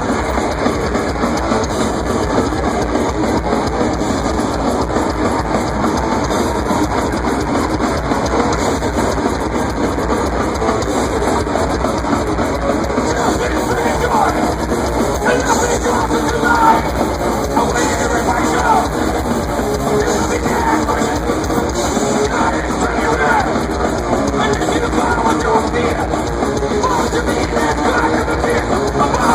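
Live thrash metal band playing at full volume, with distorted electric guitars and drums, recorded through a phone's microphone.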